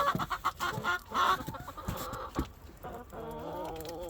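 Backyard hens clucking, with a quick run of short sharp clicks in the first second and a drawn-out, wavering hen call starting about three seconds in.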